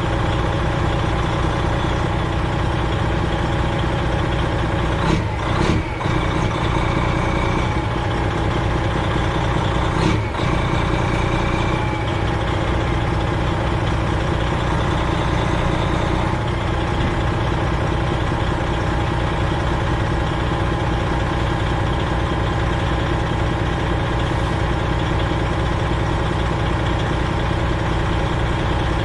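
Freightliner Classic XL semi-truck's diesel engine running steadily. A couple of brief knocks come through about five and ten seconds in.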